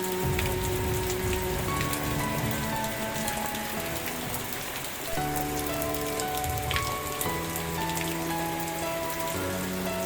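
Steady rain with scattered separate drops ticking, over soft background music of held notes that change every second or two.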